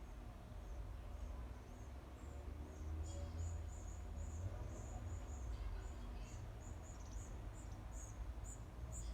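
Outdoor nature ambience: a run of short, very high chirps, sparse at first and then coming about two or three a second from about three seconds in, over a steady low rumble.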